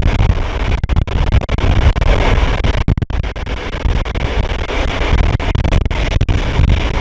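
Train running at speed behind an SU45 diesel locomotive: a loud, continuous rough rumble with a heavy low end.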